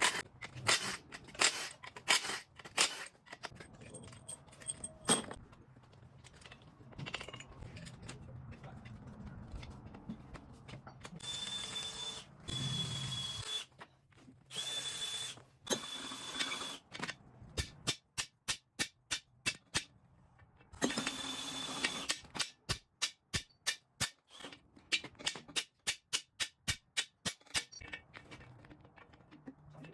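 Tool work on an engine: sharp clicks and knocks, with three short bursts of a power tool running with a high whine, and a run of quick regular clicks in the second half.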